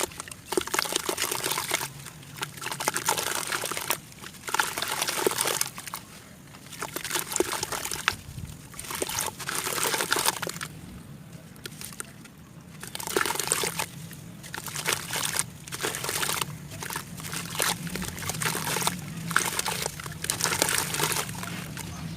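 Water sloshing and trickling in short, irregular bursts with brief pauses between them.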